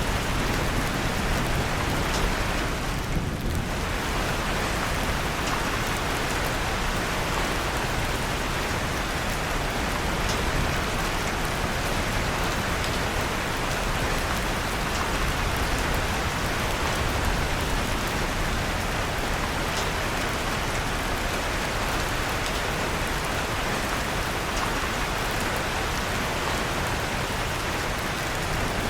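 Steady rain falling, with faint scattered crackles of a wood fire in a fireplace.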